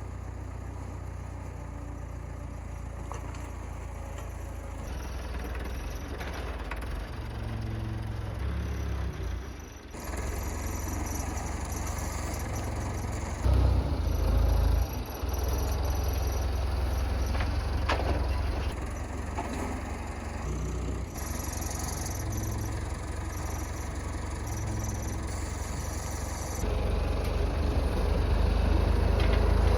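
Massey Ferguson farm tractor's engine running steadily with a low rumble. Its level shifts abruptly several times, louder for a moment about halfway through and again near the end.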